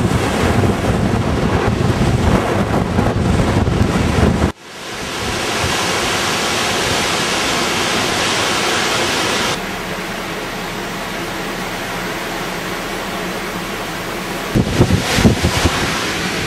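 Strong gusty wind buffeting the microphone in heavy low rumbles over a steady rushing noise of wind and water. The sound breaks off abruptly about four and a half seconds in, then returns as a steadier rush, and hard gusts hit the microphone again near the end.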